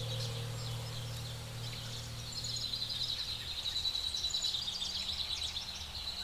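Nature ambience: a dense chorus of high, rapid chirping, pulsing more strongly from about two seconds in, over a low steady hum that fades out by about the middle.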